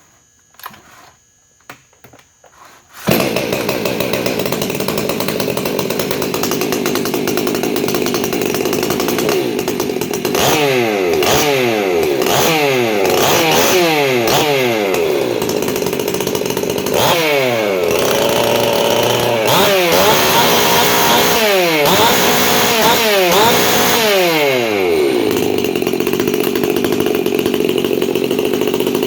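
Modified Stihl MS 362 C two-stroke chainsaw, with decked cylinder, reworked porting and timing and a buckshot muffler, starting abruptly about three seconds in after a few faint clicks. It runs, is revved repeatedly in quick throttle blips for about fifteen seconds, then runs steadily again.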